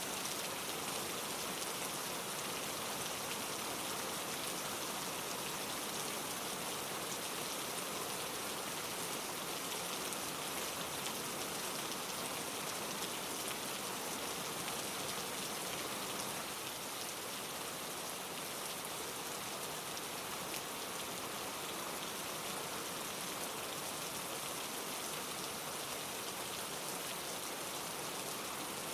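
Steady rain falling, an even hiss of many drops with no single drop standing out.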